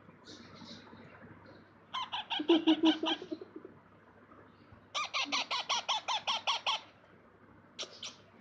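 Pet parrots calling in two runs of rapid repeated notes, about seven a second, starting about two seconds in and again about five seconds in, with a short double call near the end.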